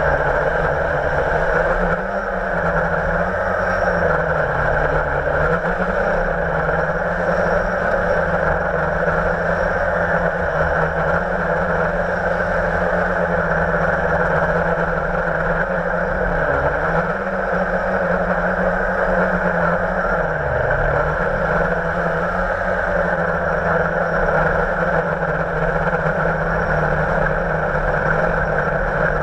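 Blade 350 QX quadcopter's electric motors and propellers whining steadily, with a few brief dips in pitch as the motor speed changes.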